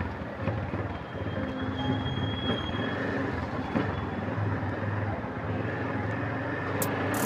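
Rusi Gamma 200 motorcycle's engine running steadily as it rides through slow city traffic, with road noise over it.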